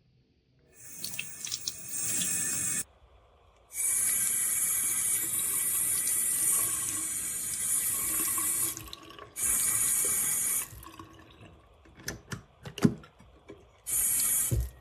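Water running from a single-lever waterfall bathroom faucet into the basin, turned on and off four times in runs of one to five seconds, with a few sharp knocks in between near the end.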